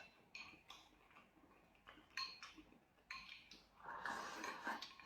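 Faint eating sounds at a dinner table: a few light clicks and taps of tableware spread through, then a soft breathy hiss lasting about a second near the end.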